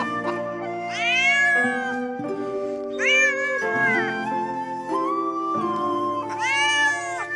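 A domestic cat meowing three times, each a drawn-out call that rises and falls in pitch, over background music.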